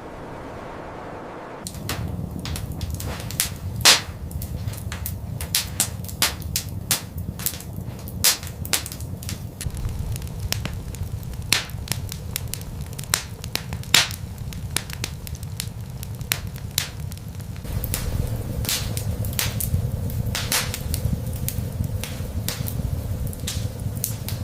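Many irregular sharp crackles and pops over a steady low rumble. They start about two seconds in, with a few louder pops among them.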